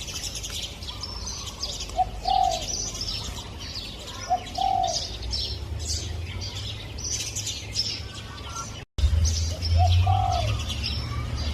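Spotted dove cooing, repeating a two-part phrase, a short note then a longer arched note, about every two seconds. Small birds chirp high and busy behind it, and the sound drops out for an instant about three-quarters of the way through.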